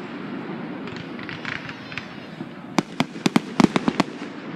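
Fireworks going off: softer scattered crackling in the first half, then a rapid cluster of about nine sharp bangs about three seconds in.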